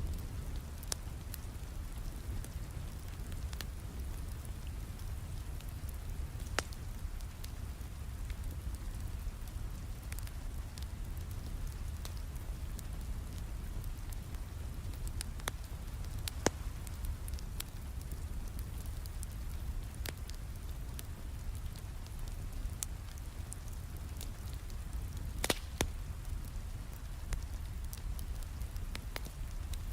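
Steady rain with a low rumble under it, and a wood fire crackling, with sharp pops every few seconds.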